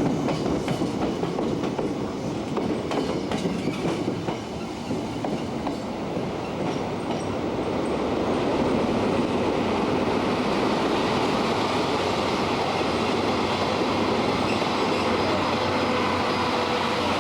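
JR Joban Line 203 series electric commuter train running on the rails, its wheels clicking over rail joints for the first few seconds before settling into a steadier running noise.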